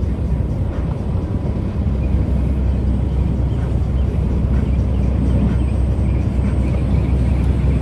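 Semi truck's diesel engine running steadily, a constant low rumble.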